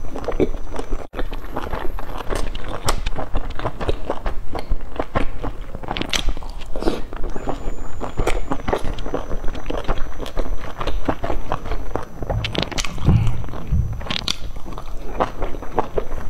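Close-miked chewing and biting of pan-fried pork and shiitake mushroom buns, with many quick, irregular mouth clicks.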